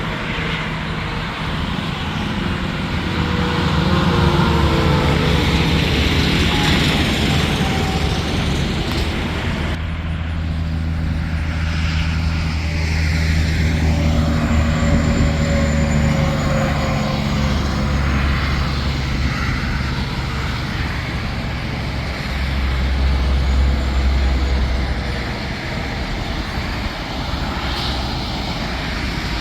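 Heavy trucks passing on an interstate highway: diesel engines and tyre noise, with engine pitch sliding downward as the trucks go by. The sound changes abruptly about ten seconds in.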